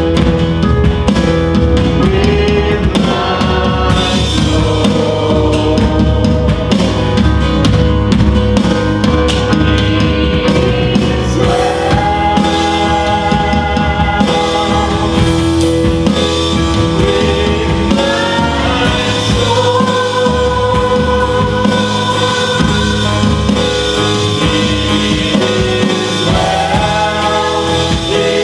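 Live worship band music: a slow song with drum kit, bass and singing, carried by long held notes that slide up into each new note.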